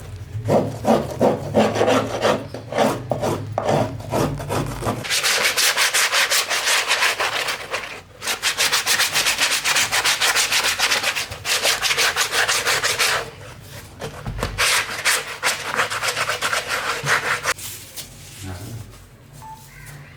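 Hand scraping on wood in rhythmic back-and-forth strokes: slower, duller strokes at first, then two long runs of quick, bright strokes with a short pause between them, fading out near the end.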